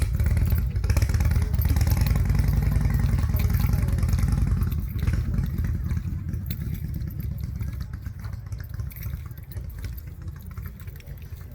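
A vehicle engine running close by, a deep, evenly pulsing rumble that gradually fades over the second half.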